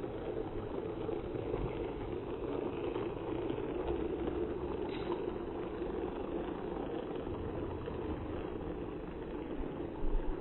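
Battery-powered toy train running: a steady motor whir, with a few low knocks near the end.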